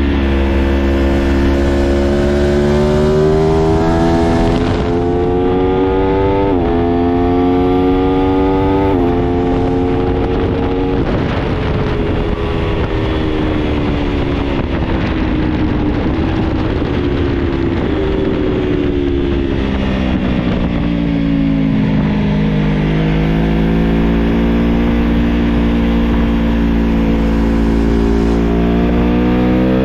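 2021 Aprilia Tuono Factory 1100's V4 engine pulling hard through the gears, its pitch climbing with quick upshifts about five, six and a half and nine seconds in. The revs then fall off slowly for a long stretch as the bike slows, and build again through the last third. A steady low wind rumble sits under it.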